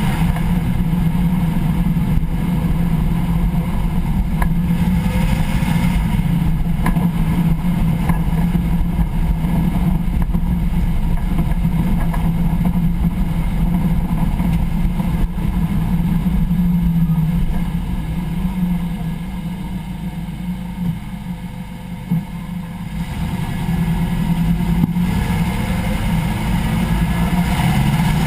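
Car driveline heard at the rear differential pinion while driving: a steady low drone over road noise. It drops away for several seconds past the middle, then builds again. This is the kind of driveline noise that shows up on deceleration.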